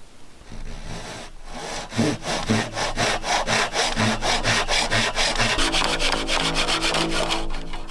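Silky Wood Boy handsaw cutting through 3-inch ABS plastic pipe with quick, even back-and-forth strokes. The strokes start slower and pick up to about four or five a second.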